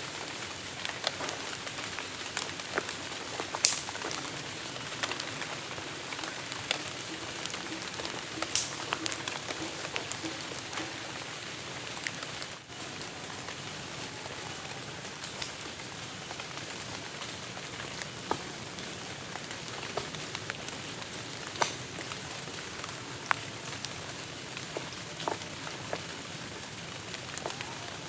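Heavy rain falling steadily, with individual drops landing in sharp, scattered ticks on a nearby surface.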